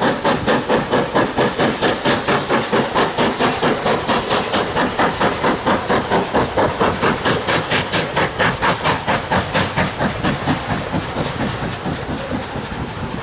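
Steam locomotive working hard, its exhaust beating about four times a second. Near the end the beats fade into a steadier rolling rumble of the train.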